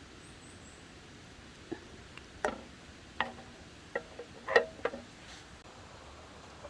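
About six scattered short clicks and light knocks over a few seconds, a couple of them with a brief ring after them.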